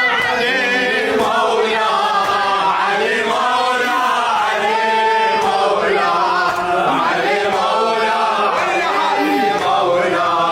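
Male voice chanting an unaccompanied melody, the pitch rising and falling without a break.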